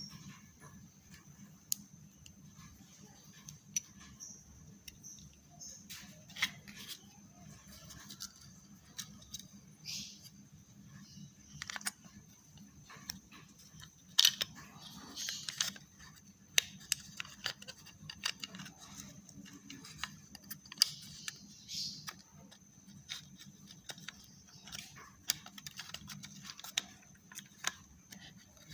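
Irregular light clicks and taps of a small plastic wireless mouse being handled and worked on, over a steady low hum.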